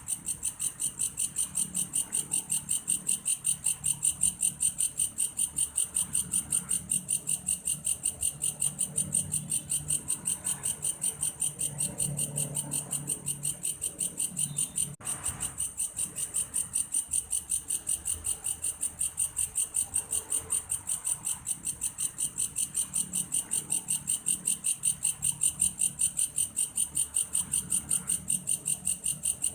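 Belalang kayu (grasshopper) calling: a continuous high-pitched, cricket-like trill pulsing at a fast, even rate, with a brief break about halfway through.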